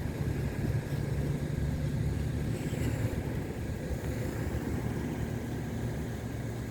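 Airbus A320's CFM56 jet engines running at a distance: a steady low rumble with a faint whine above it.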